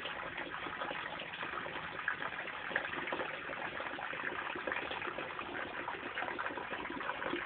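Steady rain falling on leaves: a dense, even spatter of small drops with no let-up.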